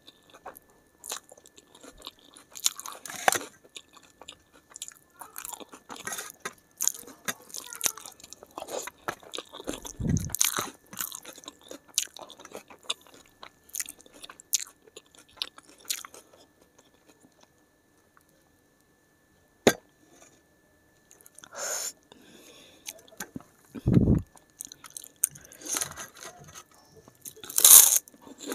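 Close-miked eating sounds of rice and curry eaten by hand, with wet chewing and lip smacks and crisp crunching of papad. The loudest crunch comes near the end, there is a quiet pause of a few seconds in the middle, and there are two dull low thumps.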